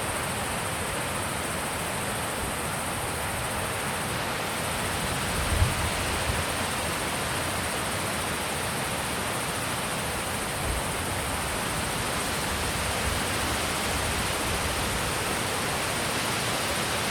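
Steady rushing wind, with a brief low thump of wind on the microphone about five and a half seconds in and a few softer ones after.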